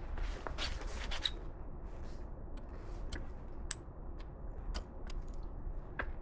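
A series of light clicks, taps and short scrapes over a steady low hum, busiest in the first second and a half, then single sharp ticks spaced out.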